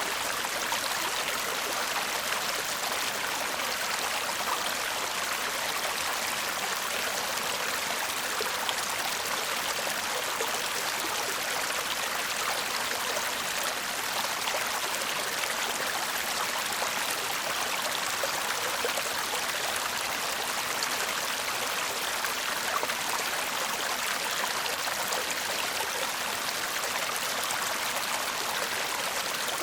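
A shallow stream babbling and trickling steadily over stones, a constant hiss of running water with no breaks.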